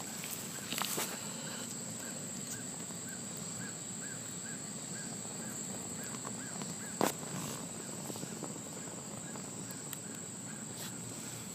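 A bird repeating a short chirp about three times a second over a steady high-pitched whine, with a single sharp crackle about seven seconds in.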